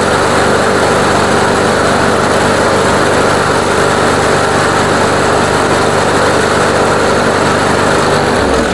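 Walk-behind lawnmower's 140cc PowerMore single-cylinder engine running steadily while it warms up, then stopping and spinning down just before the end.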